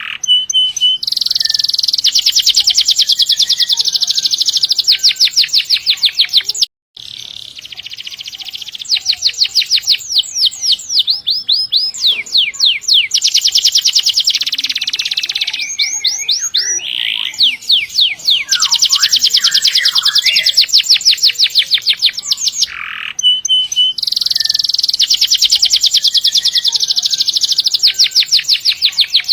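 Domestic canary singing long rolling trills: very fast repeated notes held for several seconds at a stretch, changing pattern from phrase to phrase, with short pauses between phrases. The sound cuts out completely for a moment about seven seconds in.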